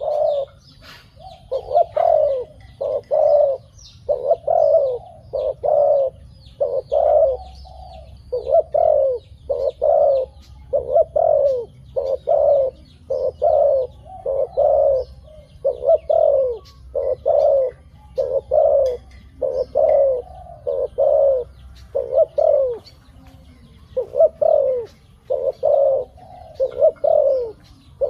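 A dove cooing over and over, a steady string of short, low, slightly falling coos about one or two a second, with a few brief pauses. Faint high chirps of other birds sound behind it.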